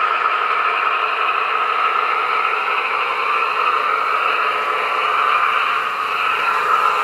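Diesel engine sound effect from the sound decoder of a Märklin VT 11.5 (601) model trainset, played through its small onboard speakers as a steady running drone.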